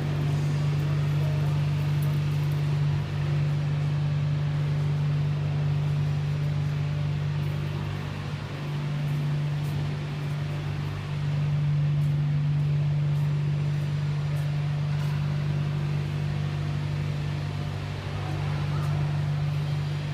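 Steady low machine hum, unchanging, with a faint noisy wash above it.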